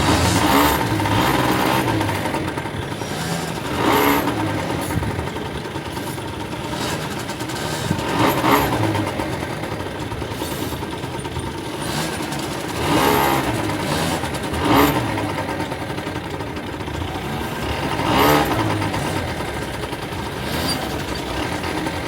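Go-kart engine running while driving, with louder surges about every four seconds.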